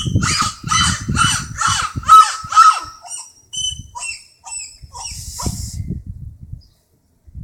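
Crows cawing in quick succession, about two harsh calls a second for the first three seconds, then a few scattered thinner calls. A low rumble runs under much of the cawing.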